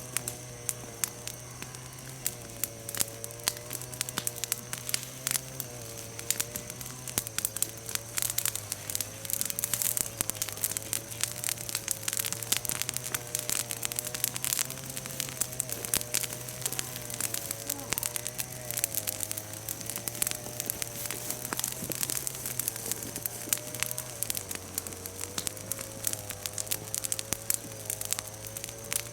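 Bonfire of freshly broken chestnut branches and leaves, crackling with many sharp pops. Underneath, a steady low hum that shifts pitch now and then and a faint wavering tone.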